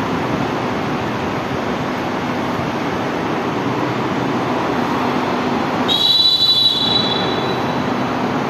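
A train running through a railway station with a steady rumbling noise. About six seconds in comes a brief high-pitched squeal lasting under a second.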